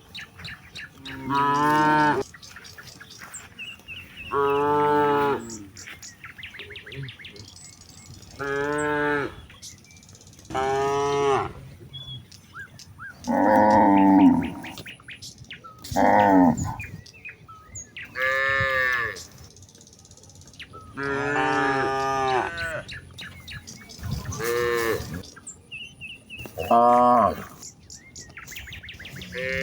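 Cattle mooing over and over, about a dozen separate calls each roughly a second long, some rising and falling in pitch: a cow calling the herd to come home. Faint bird chirps between the calls.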